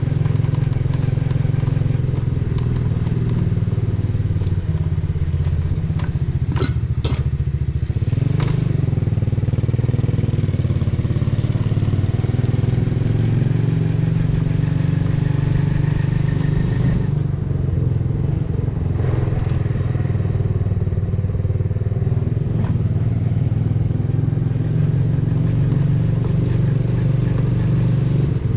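Custom 125cc motorcycle's exhaust running with a steady, low engine note while riding. A few short sharp clicks come about six to eight seconds in.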